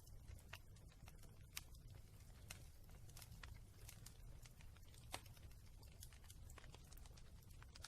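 Wood fire crackling in a fireplace: faint, irregular pops and snaps over a low steady rumble, with two sharper pops, one near the second and one about five seconds in.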